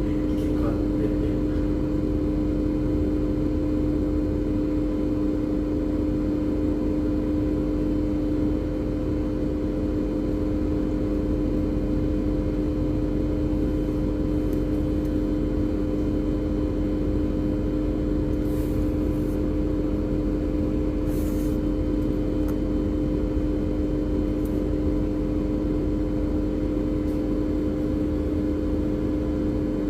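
Marine diesel engines of an assist tug running steadily: a constant low drone with a steady hum on top, unchanging in level.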